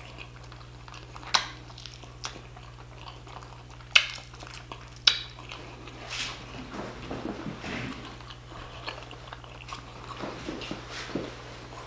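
Close-up chewing of braised oxtail meat bitten off the bone by hand, with wet mouth sounds and a few sharp lip smacks, about a second and a half, four and five seconds in. A steady low hum runs underneath.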